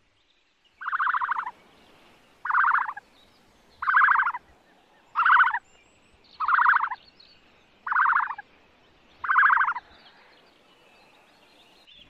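A bird calling seven times at an even pace, a short, rough, buzzy call about every second and a half.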